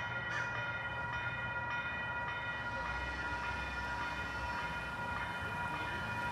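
Train sound: several steady high tones held unchanged over a faint low rumble.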